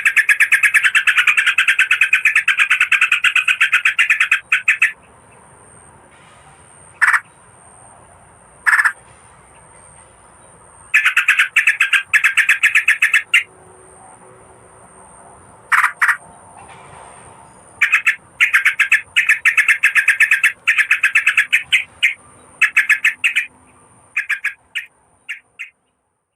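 Recorded lure call of a merbah kapur bulbul: fast chattering runs of rapid repeated notes in several bursts, broken by pauses with a few single notes, and thinning out to scattered notes near the end.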